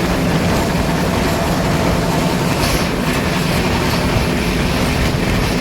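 Passenger train running on the rails: a loud, steady rumble with a low hum.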